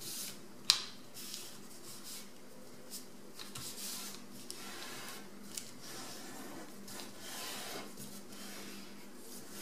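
A sheet of A4 paper rustling and crinkling as it is handled, folded and creased by hand, with one louder crisp click a little under a second in.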